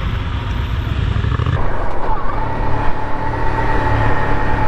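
Motorcycle engine running steadily while riding, with road and wind noise; the sound changes abruptly about a second and a half in.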